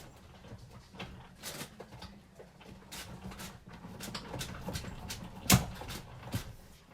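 Scattered clicks and light knocks from a die-cutting machine and its acrylic cutting plates being handled and run through, with one louder knock about five and a half seconds in.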